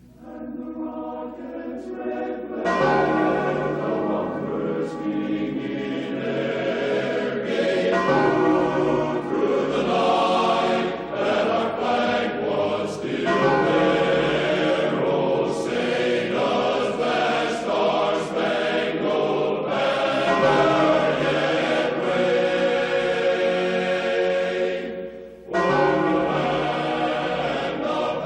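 A choir singing with bells ringing alongside, the national anthem played as the station's final sign-off. The music breaks briefly about 25 seconds in and comes back in.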